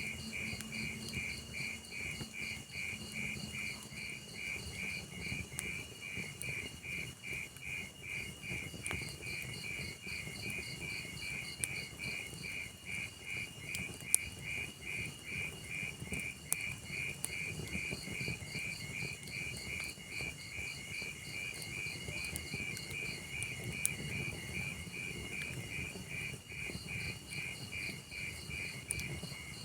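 A cricket chirping steadily in evenly spaced pulses, over the low rumble of a wood fire with a few sharp crackling pops from the burning logs.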